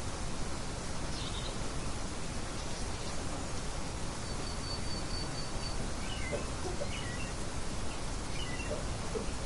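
Nature ambience of birds chirping over a steady background hiss. A quick run of high chirps comes about four seconds in, followed by scattered short calls.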